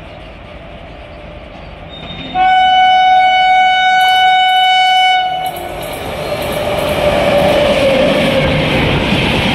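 An express train's electric locomotive sounds one long horn blast of about three seconds, beginning a little over two seconds in. The train then runs through the station at speed, and the noise of the locomotive and coaches rushing past grows louder to the end.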